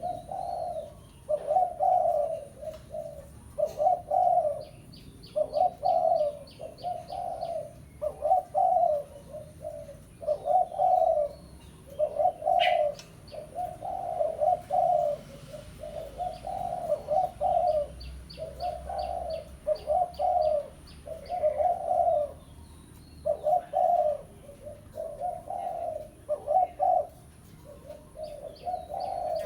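Spotted dove cooing over and over in steady, evenly paced phrases. Faint rapid runs of high chirps from a smaller bird come in a few times, with one sharp high call about halfway through.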